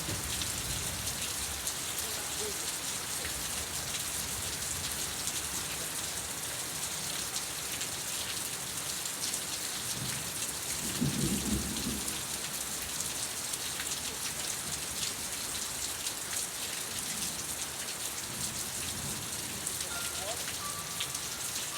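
Steady rain falling, with a brief low rumble about halfway through.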